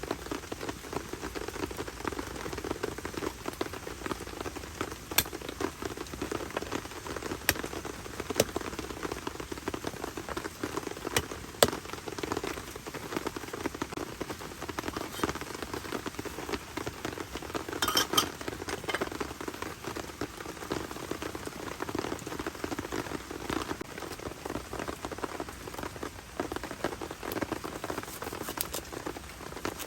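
Heavy rain falling steadily on a tent shelter, a dense patter with scattered louder, sharper drop taps, the strongest about twelve and eighteen seconds in.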